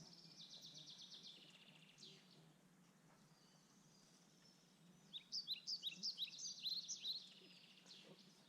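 A songbird singing: quick series of short, high notes, each falling in pitch, at about three or four a second. The first series runs into a fading trill, and after a pause of about three seconds a second series of the same notes comes in.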